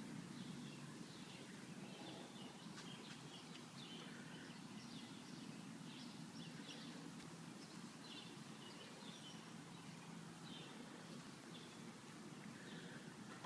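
Quiet outdoor background: a faint steady low hum with small birds chirping again and again.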